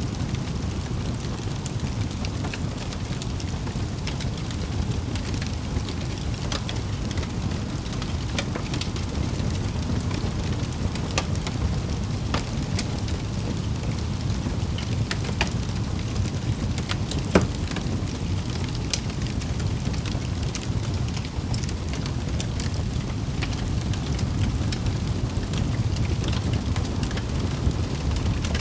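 Wood fire crackling over a steady low rumble, with scattered pops and snaps and one louder pop about seventeen seconds in.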